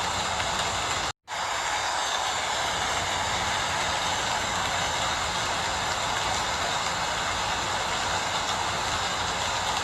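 Steady rain falling, an even hiss. The sound cuts out completely for a split second about a second in.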